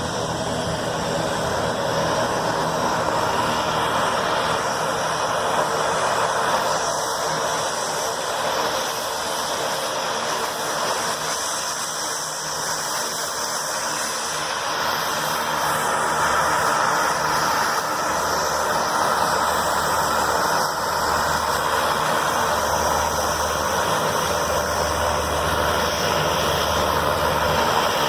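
Cessna light aircraft's engine running steadily as the plane taxis on the tarmac, a little louder in the second half.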